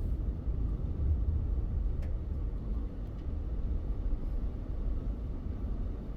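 Low, steady rumble of a car being driven slowly, with a faint click about two seconds in.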